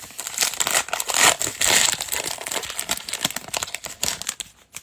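Trading-card pack wrapper crinkling and crumpling as it is torn open and handled, a dense crackle that stops just before the end.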